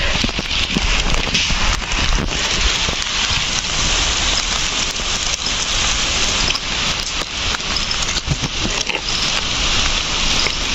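Rain falling on rainforest foliage: a steady hiss of many pattering drops.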